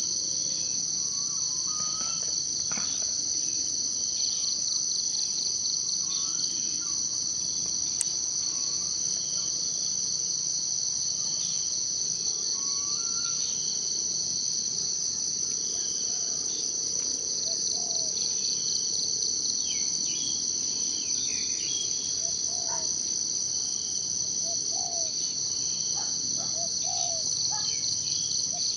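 A steady, high-pitched chorus of insects trilling without a break. Short, scattered bird calls sound beneath it, more often in the second half.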